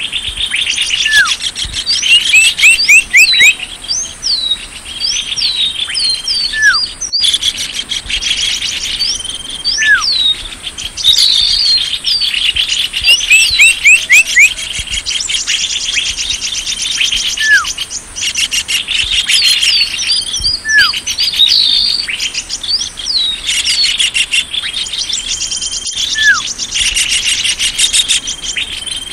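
Lure recording of small songbirds calling: dense, loud chirping with rapid trills and repeated falling whistles, the pattern recurring every few seconds. Brief cuts in the sound about seven seconds in and near the end mark where the recording is spliced or looped.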